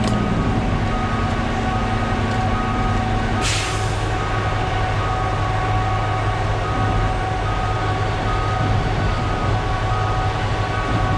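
Concrete mixer truck running steadily while its drum discharges flowable fill: a constant low engine hum with a steady whine from the drum drive. A short hiss of air comes about three and a half seconds in.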